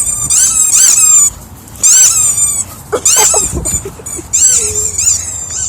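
Dog at play making a rapid run of high-pitched squeaky yelps, several a second, each rising and falling in pitch, with a brief pause about a second in and lower growl-like sounds near the middle.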